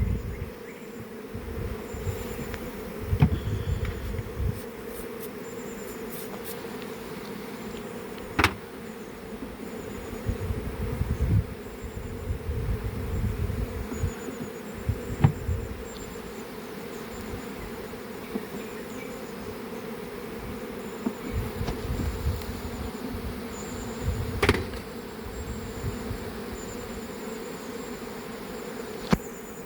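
Many honeybees buzzing steadily around an open hive, with a few sharp knocks and some low rumbling.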